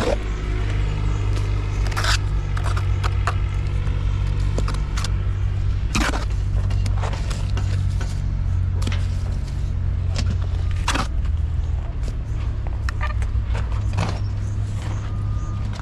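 A heavy engine running with a steady low rumble, with scattered clanks, knocks and scraping over it.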